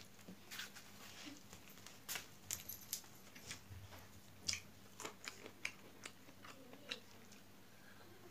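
Close-up eating sounds: chewing with a scatter of sharp, irregular crunches and clicks while a mouthful of rice is eaten by hand.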